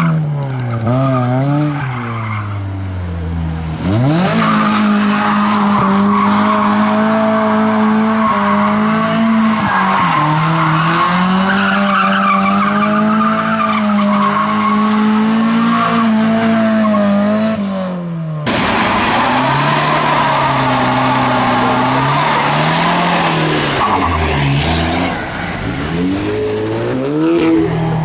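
A drifting car: the engine held at high revs with the tyres squealing. After an abrupt cut about two-thirds of the way through, an engine revs up and down repeatedly.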